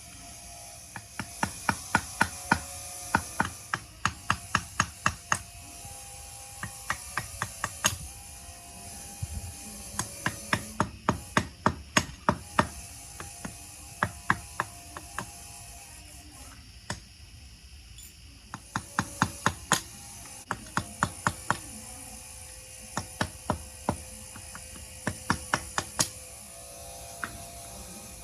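Ratchet wrench clicking in repeated runs of quick, sharp clicks, about four or five a second, with short pauses between runs, as bolts are worked on the engine.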